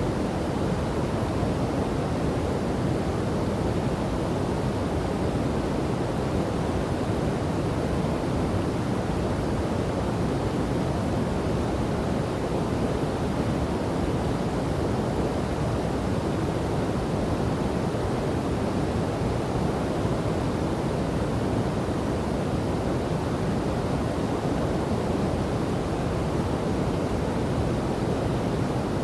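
Steady rushing of a river and waterfall, an even, deep hiss of falling and flowing water with no changes.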